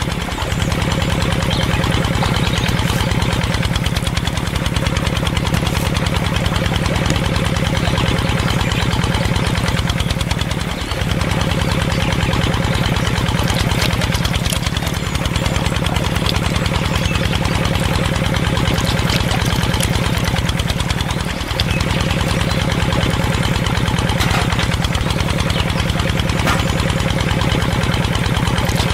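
Small engine or motor running steadily at an even idle, driving a belt-driven miniature water pump. The hum dips briefly three times, about every ten seconds.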